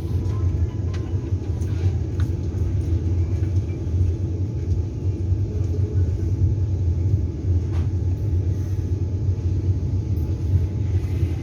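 Steady low rumble of the Vande Bharat Express trainset running along the track, heard from inside a passenger coach, with a few faint ticks.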